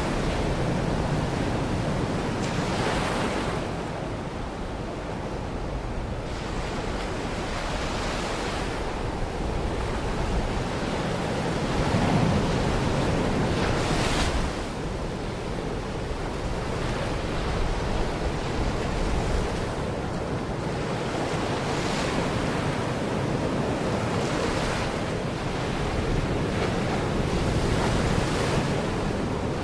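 Waves breaking on a Baltic Sea shore, one swell washing in every few seconds over a steady rush of surf, with wind on the microphone.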